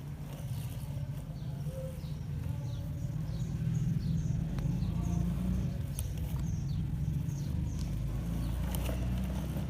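Small birds chirping with many short, high repeated notes over a steady low rumble, with a few sharp clicks.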